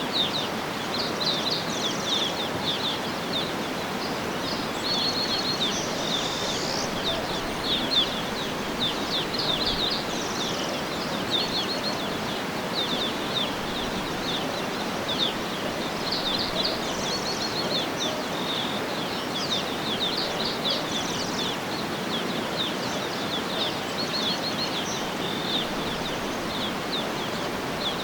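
Many small birds chirping and twittering in quick high notes over a steady rushing background noise.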